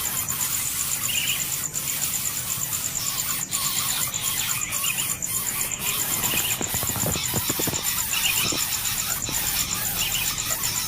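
Short high bird chirps repeating about once a second over a steady, rapidly pulsing high insect trill, with a spell of soft rustling and thumping a little past the middle.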